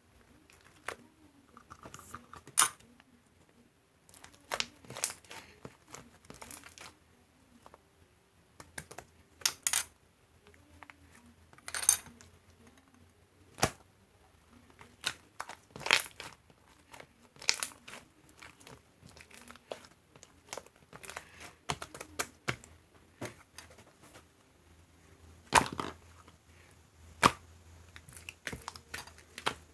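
Irregular crinkling, crackling and tearing sounds with sharp clicks, as of something being handled and crumpled close by.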